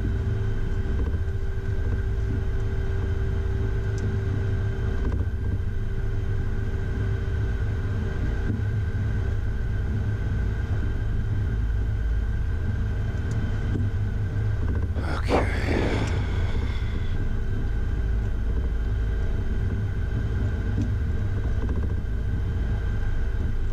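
Cockpit noise of a Beechcraft Premier I jet on the ground after landing: a steady low rumble under a few steady whine tones from the engines and systems. About fifteen seconds in there is one brief, brighter sound.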